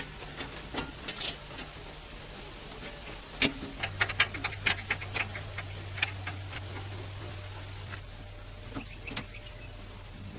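A quick, irregular series of sharp clicks and light taps, bunched together about four to five seconds in, over a steady low hum that steps up slightly about four seconds in.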